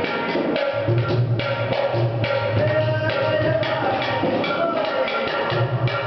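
Live folk music with a hand drum beating a fast, steady rhythm under a wavering held melody.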